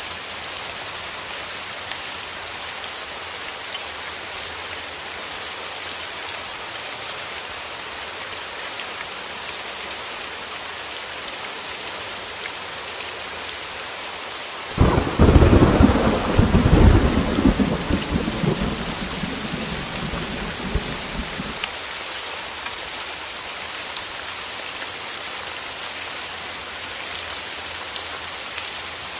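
Steady heavy rain. About halfway through, a sudden clap of thunder breaks in loud and low, then rumbles for about seven seconds before fading back under the rain.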